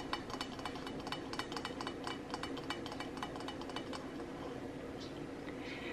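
A quick run of light clicks and clinks from items being handled on a table, thinning out after about four seconds, over a steady low electrical hum.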